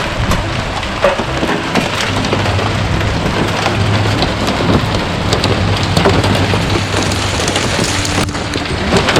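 Hail and heavy rain pelting down, a dense steady downpour with many sharp ticks of hailstones striking.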